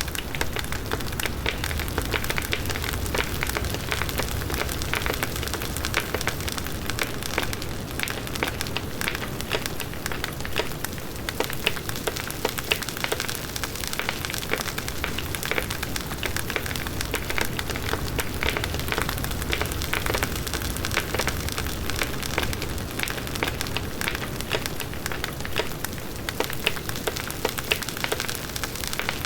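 Large wood bonfire burning steadily: a dense run of crackles and small pops from the burning wood over a low rushing of the flames.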